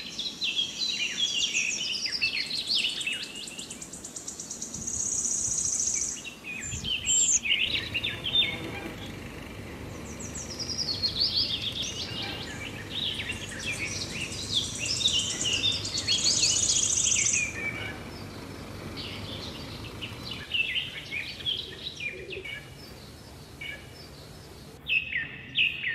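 Several songbirds chirping and singing in overlapping bouts of quick, high trills and chirps, with a few longer buzzy trills.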